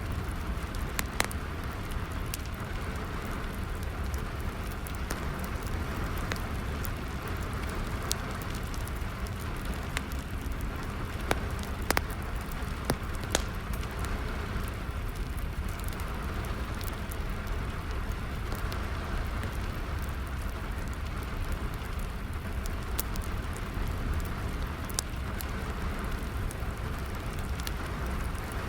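Steady rain falling together with a wood fire burning, its sharp crackles and pops scattered irregularly over the hiss of the rain and a low rumble.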